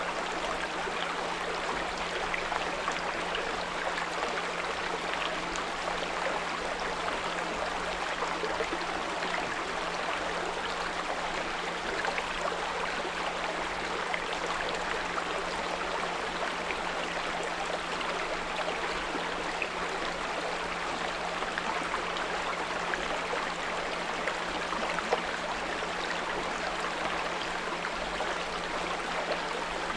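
Small brook running steadily over stones, an even continuous babble of water, with a steady low 174 Hz pure tone underneath.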